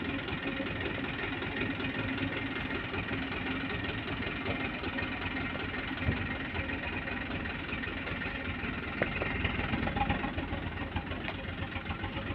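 Dump truck's diesel engine running steadily, with a brief low thump about halfway through.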